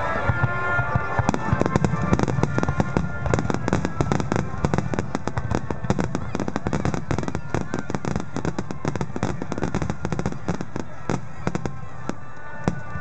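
Aerial fireworks bursting in a dense run of sharp crackles and pops over low booming, thinning out in the last couple of seconds, with the display's music playing faintly underneath.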